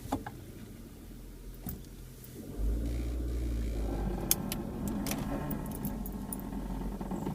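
Mazda Protege5 with a low vehicle rumble that rises sharply about two and a half seconds in, followed by a run of short, sharp creaks and clicks: the creaking noise the car has developed.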